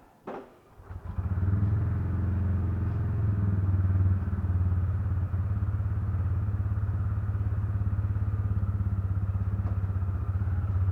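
TVS Ronin's single-cylinder motorcycle engine catching about a second in after a short click, then idling steadily with an even low pulsing beat.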